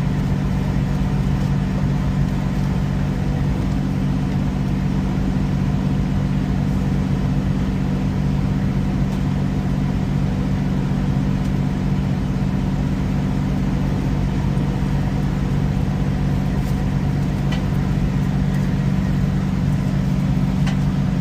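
Semi-truck diesel engine idling steadily, a constant low hum heard from inside the cab.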